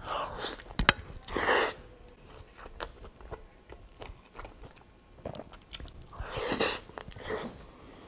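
A person biting into a steak taco in a soft tortilla and chewing it close to the microphone, with many wet mouth clicks and two louder noisy bursts, about a second and a half in and near the end.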